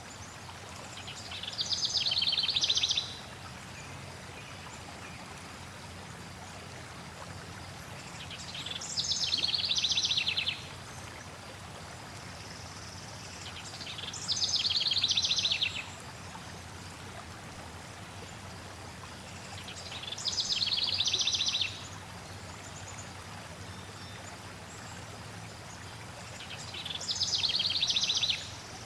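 A songbird sings the same short, fast-trilled phrase five times, about every six seconds, over a steady low rush of flowing water.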